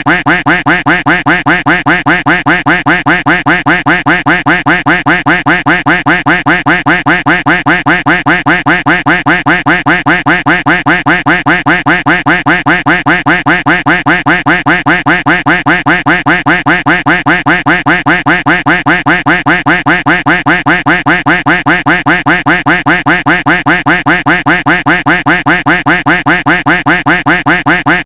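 A duck quack sound effect looped without a break, one short quack after another at a fast, perfectly even rate.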